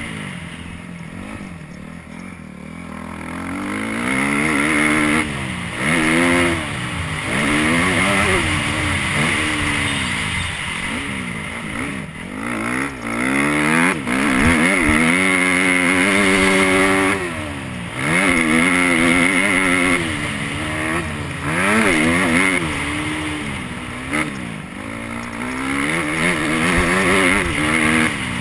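Motocross dirt bike engine revving up and falling off over and over as the rider works the throttle around the track, its pitch rising and dropping many times.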